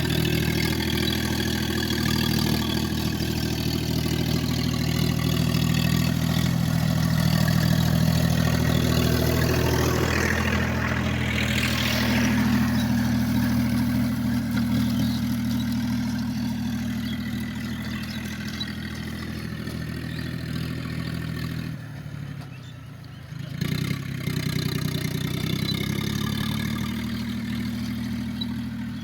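Tractor engine running steadily while pulling a gang mower. About ten seconds in, a hiss swells and fades. Three-quarters of the way through, the engine sound drops away briefly, then comes back abruptly.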